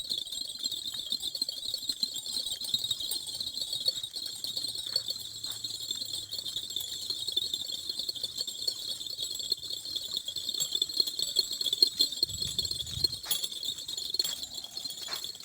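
Steady, high-pitched chorus of insects shrilling without pause, with a few faint clicks or jingles near the end.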